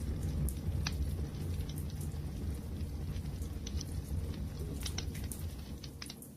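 Wood fire burning with a steady low rumble and scattered sharp crackles and pops, dipping a little in level near the end.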